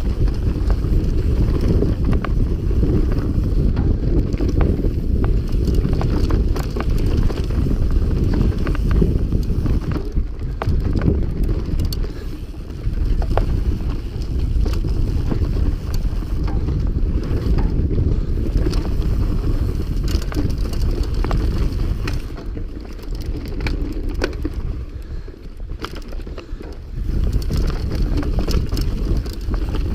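Mountain bike riding fast over a rough dirt trail: a constant low rumble of tyres and frame, with quick rattling clicks from the bike, and wind on the camera microphone. The rumble eases for a few seconds past the middle, then picks up again.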